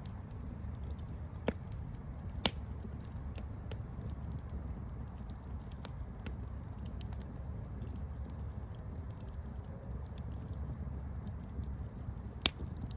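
Wood campfire crackling over a steady low rumble of the flames, with scattered small ticks and three sharp pops, the loudest about two and a half seconds in and another near the end.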